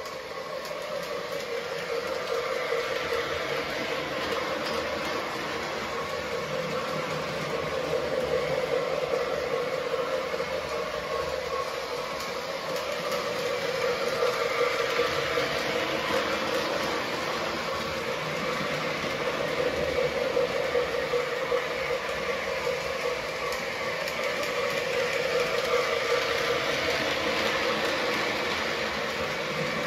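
Menards Union Pacific O gauge model train running laps on steel track: a steady rolling rumble and motor hum that swells and fades every several seconds as the train comes round the loop.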